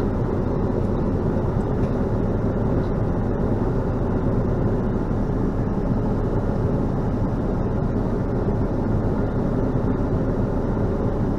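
Steady, even vehicle engine and road noise.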